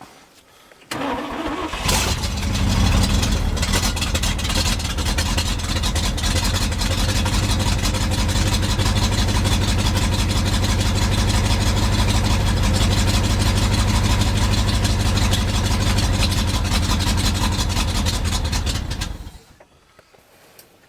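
Starter cranking the 1971 International 1890 truck's engine over for about seventeen seconds without it catching, an even rapid chug; the fuel pump has not yet pulled fuel up to the filter. It starts with a short burst about a second in and stops shortly before the end.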